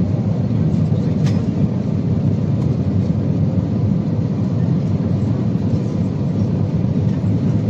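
Steady low rumble inside an Airbus A320 cabin during the descent, from engine and airflow noise. There is a faint click about a second in.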